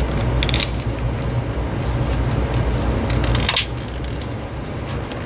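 Light plastic clicks and taps from a cordless phone handset being handled and its buttons pressed, over a steady low hum that drops away about three and a half seconds in.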